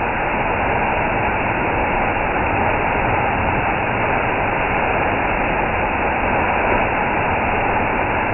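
Steady rushing of a waterfall: an even, unbroken noise with no changes.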